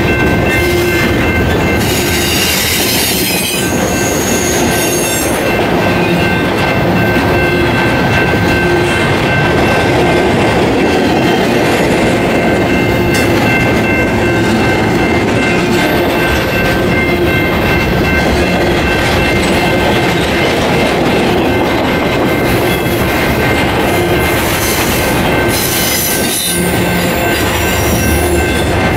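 Intermodal freight train of semi-trailers on flatcars rolling past: a loud, steady rumble and clatter of steel wheels on rail, with a thin high-pitched wheel squeal throughout.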